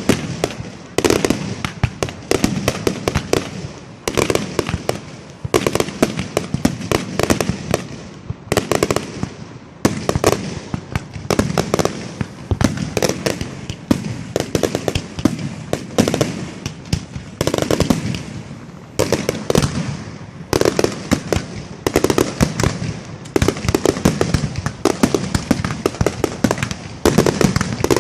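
Fireworks display: rapid, continuous bangs and crackling from aerial shells, with louder salvos every second or two.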